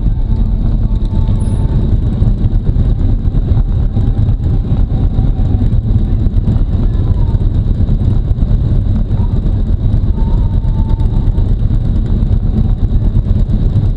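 Harley-Davidson Road Glide Ultra's V-twin engine running steadily as the motorcycle is ridden, a loud low rumble.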